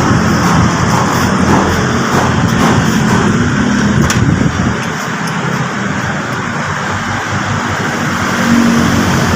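Steady motor-vehicle engine and road-traffic noise, with one sharp click about four seconds in.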